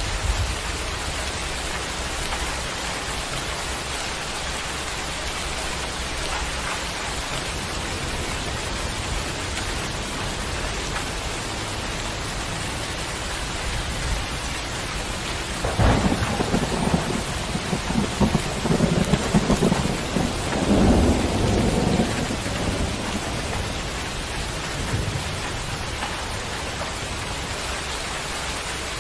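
Steady rain falling. About halfway through, a roll of thunder rumbles for several seconds, louder than the rain, then fades back into the rain.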